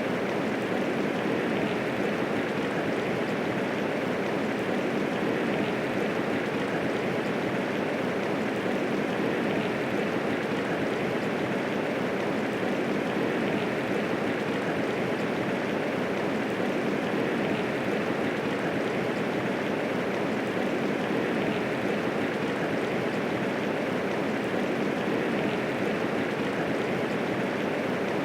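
Steady medium rainfall, an even, unbroken hiss of falling rain with no thunder.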